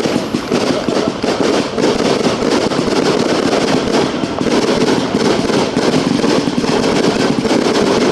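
Fireworks display: many rapid, overlapping bangs and crackles, dense and loud with no pause.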